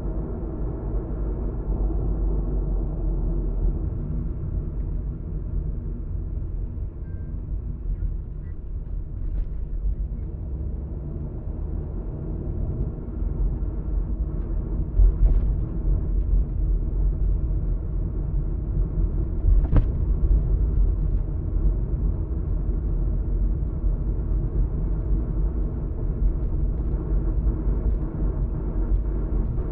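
Car driving at speed, heard inside the cabin: a steady low rumble of road and engine noise. A couple of short clicks or knocks stand out, one about halfway through and a sharper one about two-thirds of the way in.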